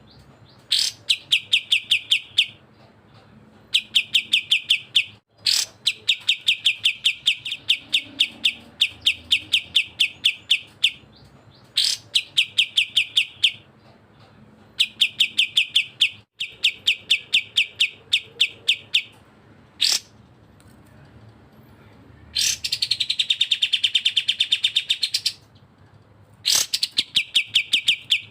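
Bulbul song in fast runs of sharp, evenly repeated chirps, about ten a second, each run lasting one to three seconds with short gaps between. About three-quarters of the way through comes a denser, fuller trill.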